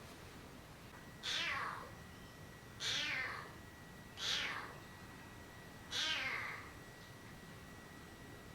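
A kitten meowing four times, about a second and a half apart: short, high-pitched meows that fall in pitch.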